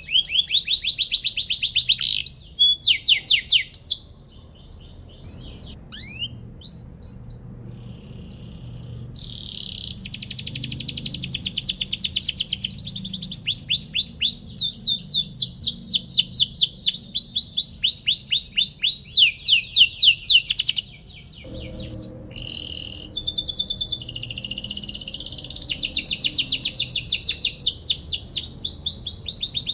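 Domestic canary singing a long, vigorous song made of fast trills of repeated rising 'cuit cuit' notes, switching between trills of different pitch. There is a quieter stretch of soft scattered notes in the first third and a brief pause about two-thirds of the way through.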